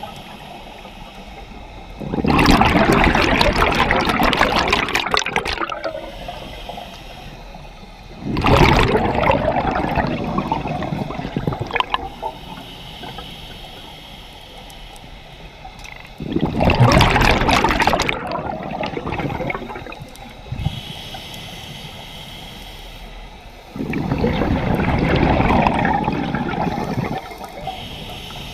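Scuba diver breathing through a regulator underwater: four long exhalations, each a rush of gurgling bubbles lasting two to four seconds, with quieter pauses for inhaling between them.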